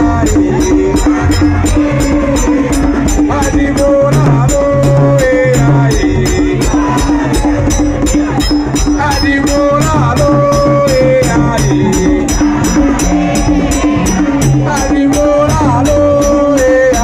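Live band music with a steady beat, a shaker-like rattle ticking about three times a second over a steady bass and a melodic lead line.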